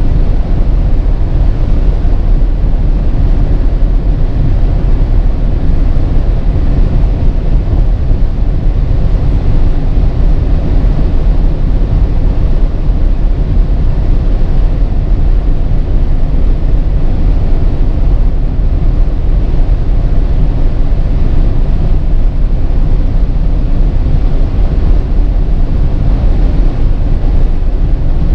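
Steady low rumble of road and wind noise from a 2019 Audi Q8 50 TDI driving at an even speed, with no rise or fall in pitch.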